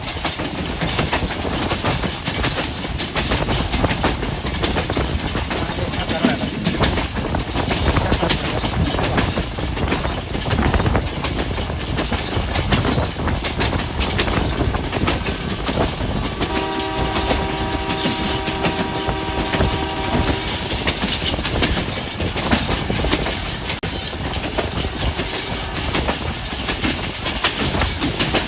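Hazara Express passenger train running at speed, its wheels clattering over the rails under a steady rumble. A little past halfway, the locomotive horn sounds one steady blast lasting about four seconds.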